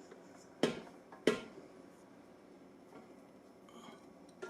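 Two sharp clanks of a utensil or mixer part knocking against a mixing bowl, about two-thirds of a second apart, with a fainter knock near the end.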